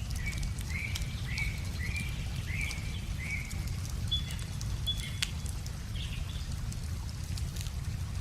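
A wood fire crackling with sharp, scattered snaps over a steady low rumble, while a songbird repeats a short chirp about twice a second for the first three seconds and then gives a few higher notes.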